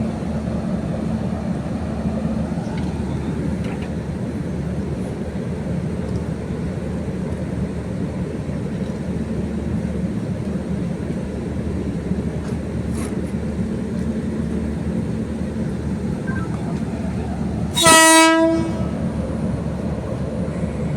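A train running with a steady rumble, and a short, loud horn blast near the end.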